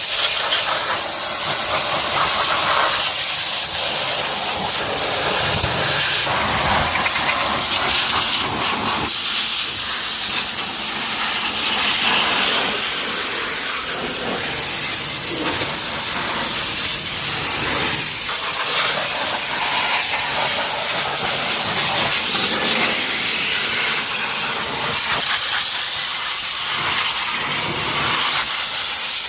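High-pressure water spray hissing steadily onto a car's engine, swelling and easing every few seconds as the jet moves.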